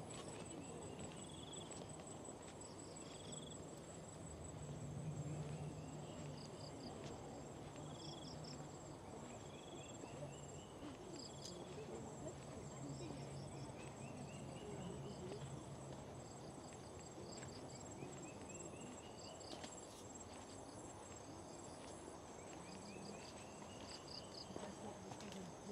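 Tropical insects calling together: a steady high-pitched whine under clusters of short pulsed chirps every second or so. Series of short notes climb in pitch again and again.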